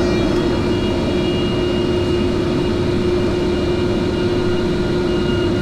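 A 15 hp Chicago Pneumatic QRS 15 rotary screw air compressor running: a steady machine noise with one constant tone through it, holding an even pitch and level.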